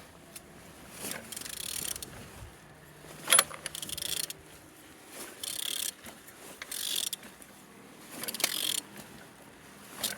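Engine being turned over by hand: short metallic ratcheting and scraping strokes about every second and a half, with one sharp metallic click a little over three seconds in.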